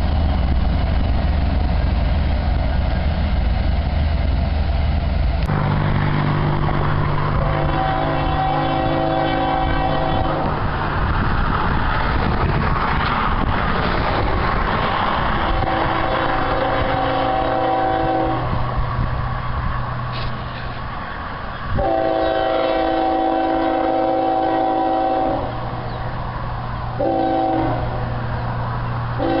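Union Pacific diesel locomotives running by, their engines making a loud, steady low drone. The multi-note air horn sounds long blasts, then a short one and a final long one, the pattern of a grade-crossing warning.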